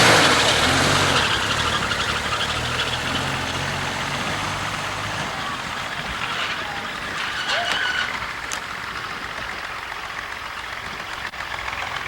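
An engine running steadily, dying away after about five seconds, followed by a faint hiss.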